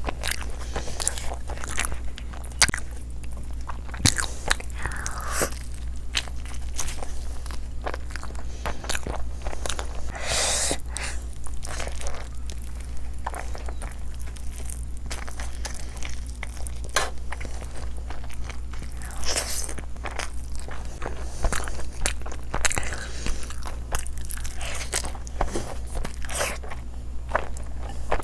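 Close-miked eating: a person biting and chewing mouthfuls of chicken curry and biryani, with many wet clicks and smacks, over a steady low hum.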